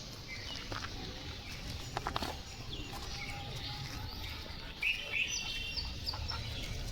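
Small birds chirping, a few short high calls about five seconds in, over a steady low outdoor background; a couple of soft clicks about two seconds in.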